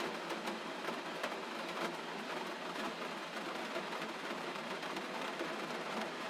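Gentle rain falling steadily, an even hiss with faint scattered drop ticks.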